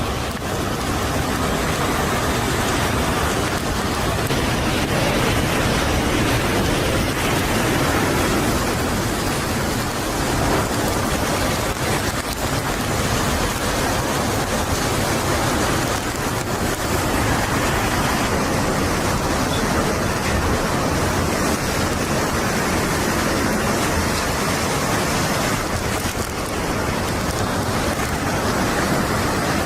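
Hurricane wind and driving rain: a loud, steady rushing noise with slight swells in strength.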